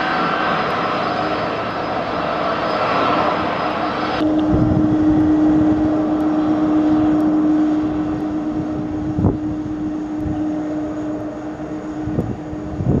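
Airliner engines running close by, a loud steady drone. About four seconds in the sound changes abruptly to a steady low hum with a held tone and scattered low thumps.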